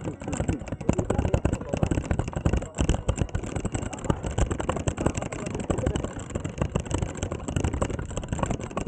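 Wind buffeting the microphone of a camera carried while riding a bicycle, with a choppy rumble and road noise.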